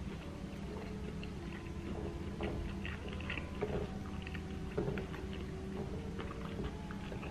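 Close-up mouth sounds of a man chewing a mouthful of food, with small wet clicks, over soft background music.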